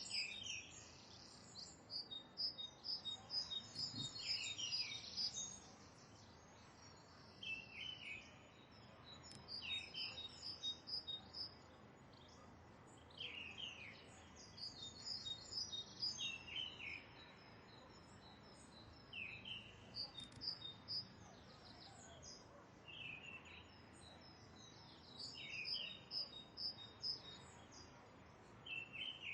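Several birds calling over a faint steady background hiss: a short falling call repeats about every three seconds, among bursts of high, quick chirping.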